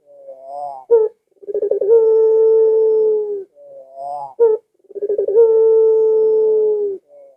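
Ringneck dove ('puter pelung' type) cooing loudly. Each phrase opens with a wavering stutter, holds a long level coo for about two seconds, then ends in a few short rising notes and a brief clipped note. Two full phrases are heard.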